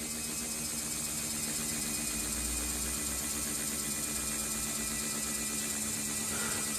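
Small electric fan running steadily: a constant motor hum with a low held tone under the even rush of air from the blades.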